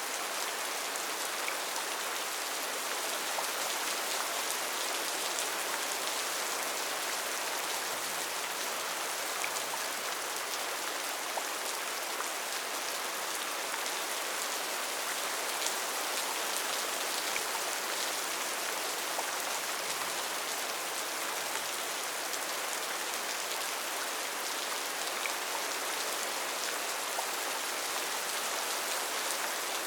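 Steady, even rain falling on foliage and surfaces, with scattered individual drop ticks.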